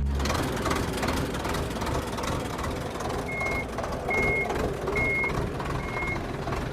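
Heavy vehicle running with a dense, steady rumble, and a reversing alarm beeping four times, about one beep a second, starting about halfway through.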